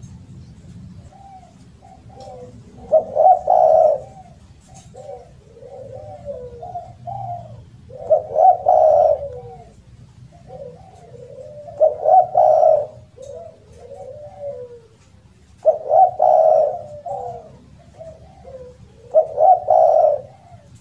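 Spotted dove (derkuku, tekukur) cooing loudly in repeated phrases, a loud coo phrase about every four seconds with softer coos between.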